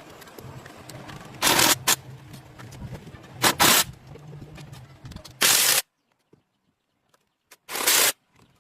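Short, loud bursts of hiss, about six in all, each lasting a quarter to half a second, over a low background hum. The sound drops out completely for nearly two seconds about three-quarters of the way through.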